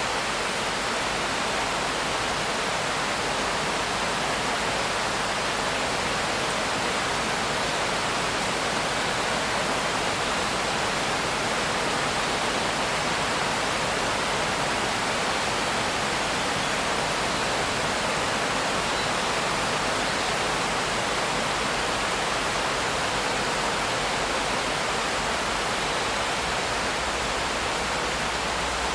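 Steady rain falling, a continuous even hiss with no separate drops, thunder or changes.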